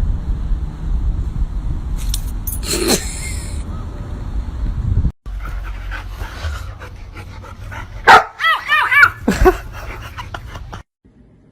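A dog barking and yelping, loudest in a quick run of high, pitched calls about eight to nine seconds in. Before that, a low steady rumble with one falling cry over it, which breaks off suddenly about five seconds in.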